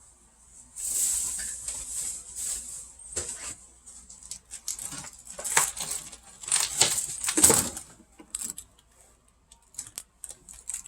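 Rustling and crinkling of packaging being handled on a table, in irregular bursts with sharp clicks, the loudest about five and a half and seven and a half seconds in, where a low knock also sounds; after about eight seconds only scattered clicks remain.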